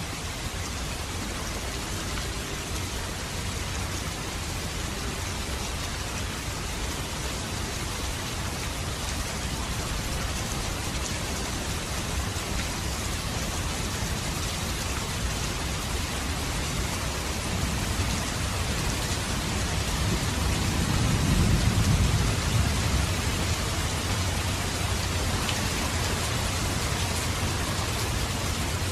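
Steady rain falling, an even hiss of many drops. About two-thirds of the way through, a low rumble swells and fades under it.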